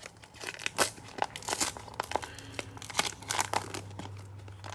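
Plastic cello-pack wrapper crinkling and tearing as a pack of trading cards is opened by hand, in short irregular crackles.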